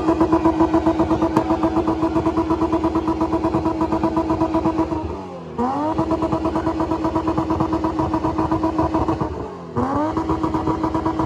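A car engine held at high revs against the rev limiter, pulsing rapidly. Twice the throttle is let off, the revs fall briefly, and it is floored back up to the limiter.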